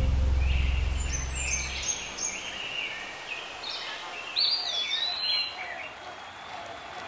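A low held music tone dies away about two seconds in, leaving small birds chirping and twittering in quick short calls over faint background noise.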